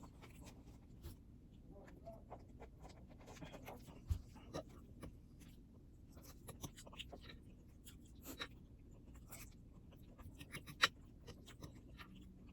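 Quiet, scattered clicks and scrapes of cutlery on a plate during a meal, with a soft low thump about four seconds in and a sharper click near the end.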